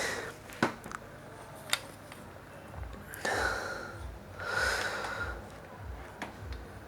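Two breathy exhales close to the microphone, a little over a second apart, with a few faint sharp clicks of handling before them.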